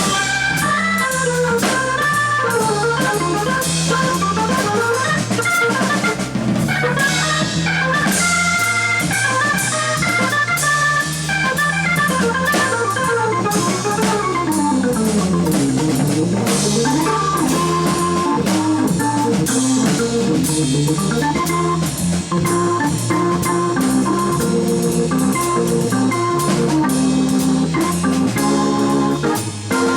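Live jazz: an organ playing fast runs over a drum kit, with a quick run sweeping down and back up about halfway through.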